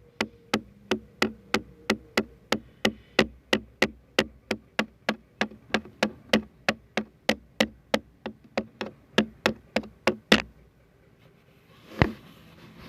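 Hard, even tapping or knocking on a surface, about three taps a second, that stops about ten seconds in, followed by a single louder knock near the end.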